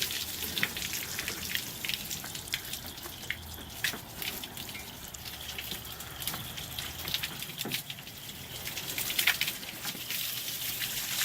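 Water from a garden hose splashing over a truck's ceramic-coated body, with steady hissing spray and many drops pattering and dripping off.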